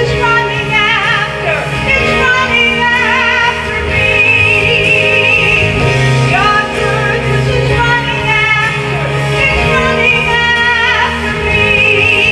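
Music: a singer holding notes with a strong vibrato over a steady instrumental accompaniment with bass, the phrases repeating about every six seconds.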